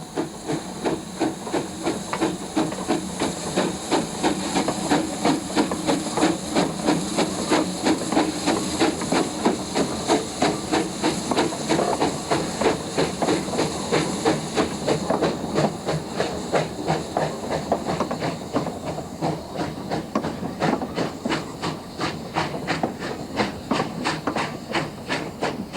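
Narrow-gauge steam locomotive under way: its exhaust chuffs in a steady, even rhythm over a continuous hiss of steam.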